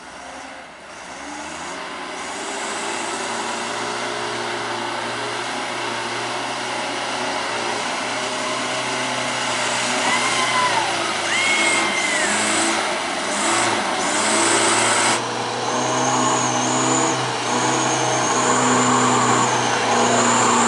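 Truck engine running hard under throttle, getting louder over the first few seconds and then holding steady.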